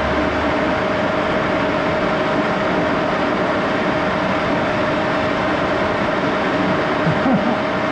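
Axelson engine lathe running at a steady speed, gears and spindle giving a continuous mechanical noise with a steady whine running through it.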